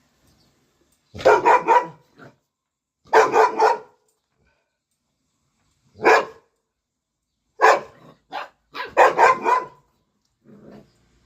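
Dog barking in several short bouts of two to four barks each, with gaps of a second or two between bouts.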